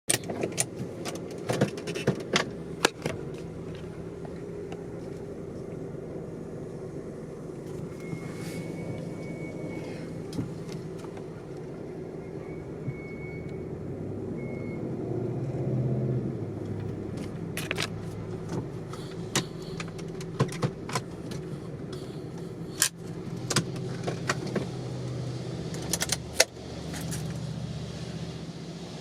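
Car engine idling steadily, with sharp clicks and taps scattered over it and a faint high beep now and then.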